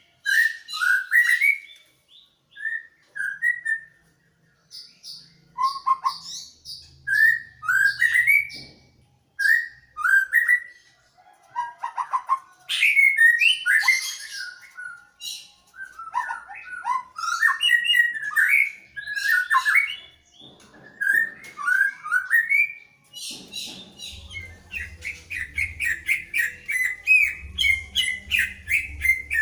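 A cucak ijo (green leafbird) and a Medan white-rumped shama singing back and forth: varied whistled phrases of rising and falling notes, turning into a fast run of rapidly repeated notes near the end.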